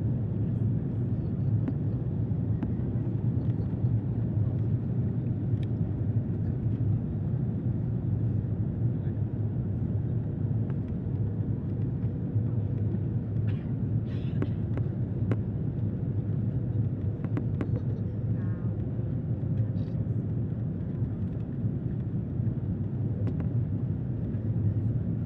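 Steady low rumble of airliner cabin noise during the approach to landing: engines and airflow, with a few faint clicks.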